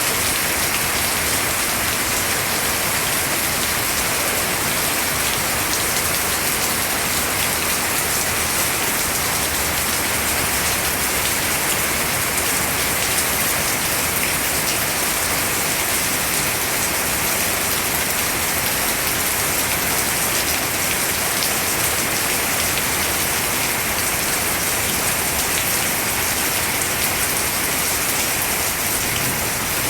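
Steady rain falling on foliage and ground, an even, unbroken hiss of drops.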